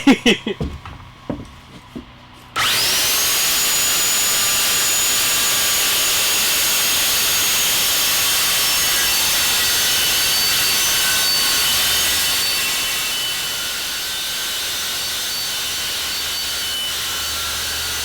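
A power saw starts about two and a half seconds in, its whine rising fast as the motor spins up, then runs steadily while ripping a wooden board lengthwise to 4.5 inches wide. It gets a little quieter around twelve seconds in.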